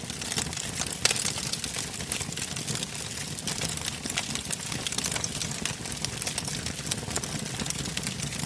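Wood campfire burning: a dense, irregular run of sharp crackles and pops over a low steady rumble of the flames, with one louder pop about a second in.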